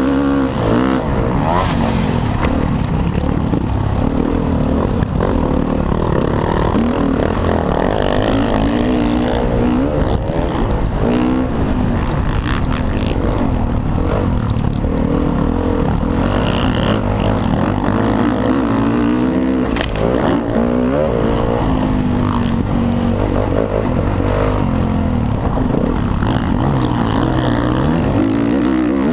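Motocross dirt bike engine revving hard at racing pace, its pitch rising and falling over and over as the throttle opens and closes.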